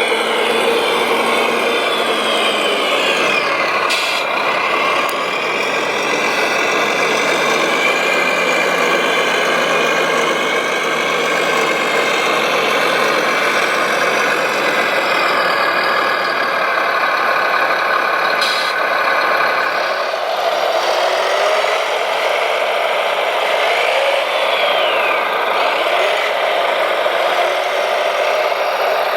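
Radio-controlled construction models working: the whine of electric motors and gearboxes, with rattling and scraping. The motor tones change pitch now and then as the machines speed up and slow down.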